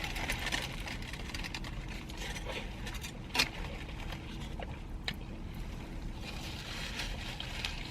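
Close-up eating sounds: chewing food, with scattered small clicks and a wet, squishy texture.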